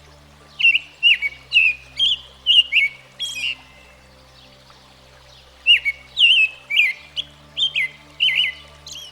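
American robin singing: two runs of short, clear whistled phrases, the second starting about halfway through.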